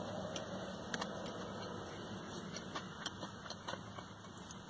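Chewing a mouthful of sub sandwich, heard as scattered small clicks, over the steady low hum of the car's engine idling in the cabin.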